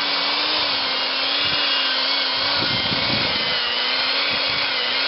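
Power tool with a wire brush running against the steel rim of a 1953 Massey-Harris Pony tractor, cleaning off rust and old paint. A steady motor whine sits over a scratchy hiss from the bristles, with a rougher patch a little past halfway.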